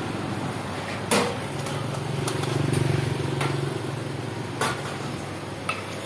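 Street traffic with a motorcycle engine, swelling about two to three seconds in, and a few sharp knocks, the loudest about a second in.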